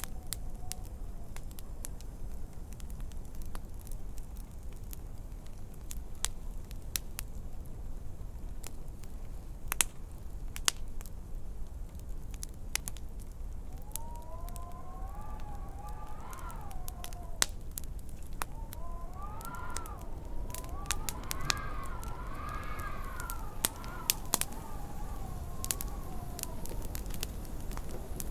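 Wood fire crackling in a fireplace, with irregular sharp pops over a steady low rumble. About halfway through, a high wavering howl rises and falls repeatedly for roughly thirteen seconds, then fades.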